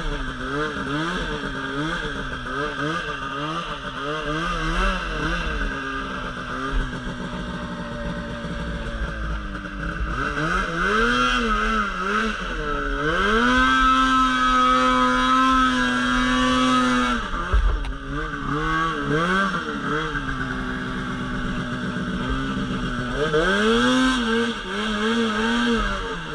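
Polaris RMK Pro 800 two-stroke snowmobile engine working through deep snow. The throttle is pulsed up and down several times at the start, then the engine climbs to a high rev held for several seconds around the middle before easing off. Near the end the throttle pulses again.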